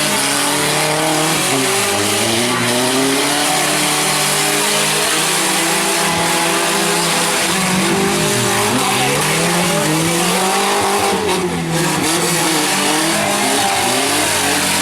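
Several compact truck and van engines running and revving at once, their pitches rising and falling unevenly over a steady loud din.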